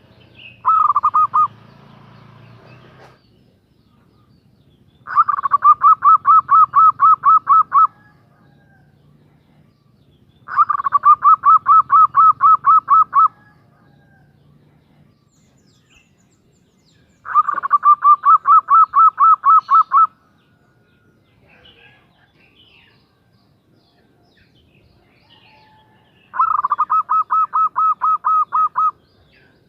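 Female zebra dove (perkutut) calling to draw a male: a brief run of rapid coos right at the start, then four runs of about fourteen quick, even coos, each close to three seconds long, with pauses of several seconds between them.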